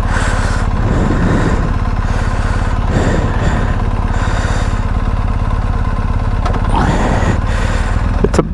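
BMW R1250GS Adventure's boxer-twin engine running steadily, with an even low pulse and no revving.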